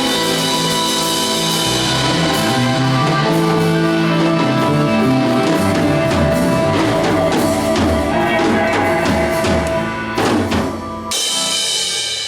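Live band jamming: drum kit with kick and snare driving under bass and sustained chords. About eleven seconds in the band drops out briefly, then comes back in with a bright cymbal wash.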